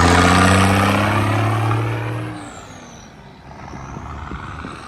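Motor vehicle engine accelerating, its pitch rising slightly, loud at first and then fading away about two and a half seconds in.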